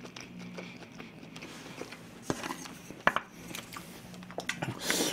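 Close-miked chewing and wet mouth clicks, with sharp clicks of chopsticks against the takeout tray, the loudest about three seconds in and several more near the end.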